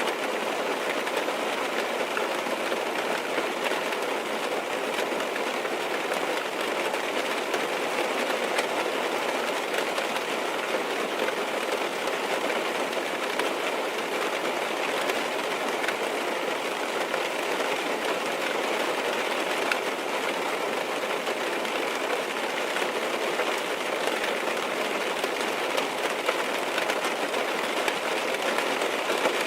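Steady rain falling on a car's roof and windows, heard from inside the car: an even hiss of many small drop ticks that holds constant.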